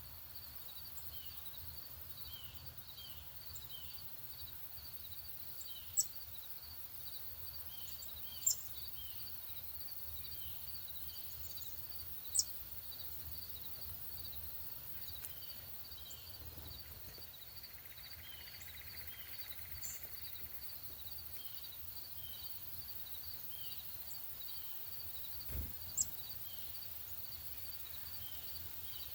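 Outdoor ambience with an insect chirping in a steady, even pulse throughout. A bird gives a few sharp, short chip notes, and there is a dull thump near the end.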